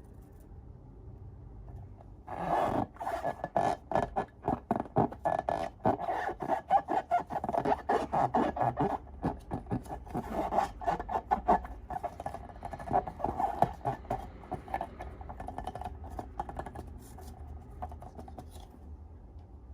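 Rapid, irregular scraping and crackling from hands working slime and balloon rubber, starting about two seconds in and thinning out near the end.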